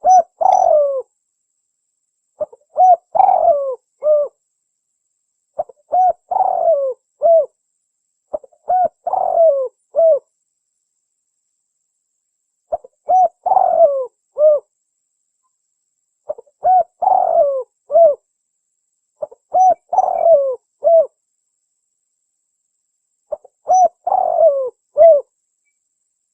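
Spotted dove (tekukur) cooing, a recorded lure call. It gives eight phrases of several short, falling coos each, one every three seconds or so, with silent gaps between them.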